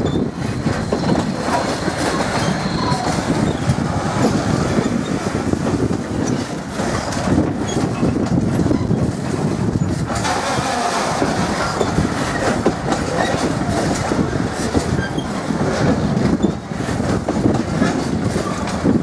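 Freight train of enclosed car-carrier wagons rolling past: a steady rumble of wagon wheels on the rails, with a constant clatter of knocks.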